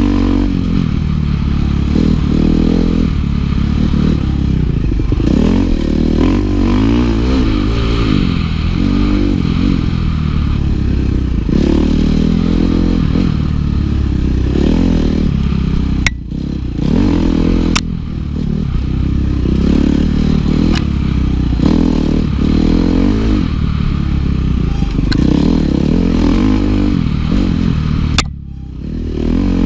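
Dirt bike engine revving up and down again and again under a working throttle. The engine briefly drops off about halfway through and again near the end.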